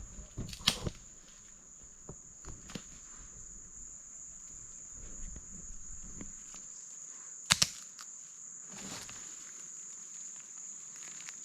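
Insects chirring in a steady high-pitched drone, with a few scattered clicks and knocks. The loudest is a quick double knock about seven and a half seconds in.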